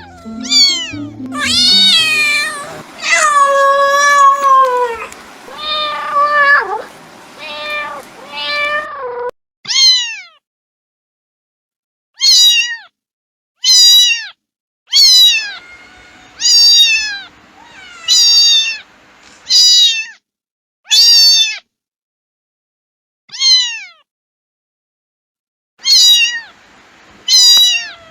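Cat meowing over and over. A run of longer, overlapping meows comes first, then about a dozen short, separate meows with silences between them. Most meows fall in pitch.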